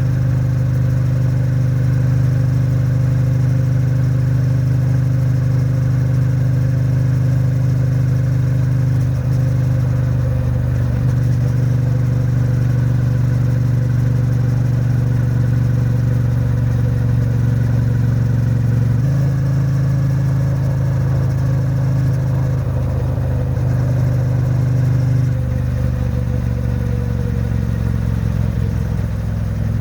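Triumph Bonneville T100's 900 cc parallel-twin engine and exhaust running steadily at highway cruising speed, held at moderate revs during break-in. Its note shifts abruptly about a third of the way in, again past the middle and once more near the end, as the throttle changes.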